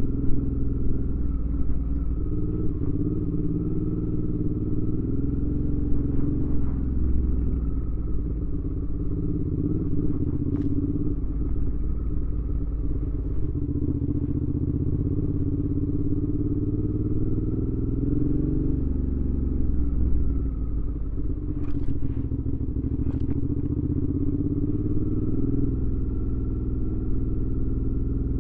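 2019 Suzuki V-Strom 650's 645 cc V-twin running through a Delkevic aftermarket exhaust while riding, its pitch rising and falling gently with the throttle. A few short clicks, two of them close together about two-thirds of the way through.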